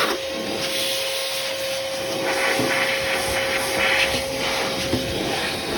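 Vacuum cleaner running with a steady whine while it sucks dust out of a furnace cabinet, the rushing of the suction swelling a couple of times about halfway through.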